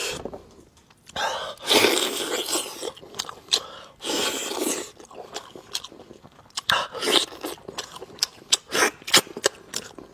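A person eating close to the microphone, heard as three longer noisy mouth pulls followed by many quick wet chewing clicks near the end.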